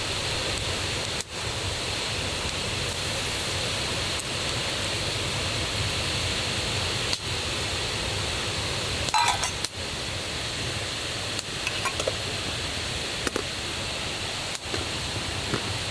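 Steady rush of a forest river and waterfall running high and loud after rain. A few light clinks and knocks cut through it, a small cluster about nine seconds in.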